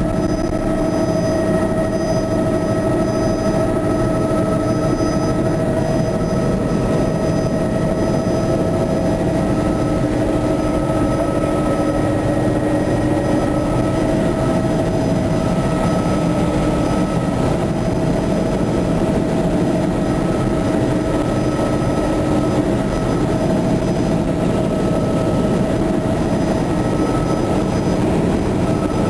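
Helicopter turbine and rotors running steadily in flight, a loud even drone with a constant whine, heard from inside the cabin.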